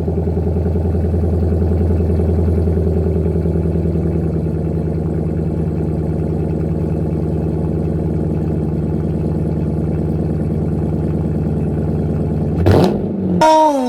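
A 2019 Dodge Charger R/T's 5.7-litre Hemi V8 idling steadily through a freshly fitted MBRP 3-inch race-profile cat-back exhaust, with a deep, even exhaust note. It cuts off shortly before the end.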